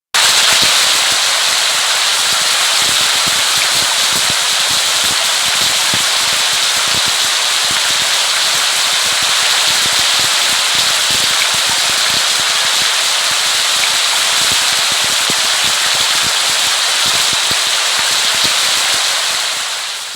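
Steady rain: a dense, even hiss with countless drops pattering and crackling on a surface, fading out near the end.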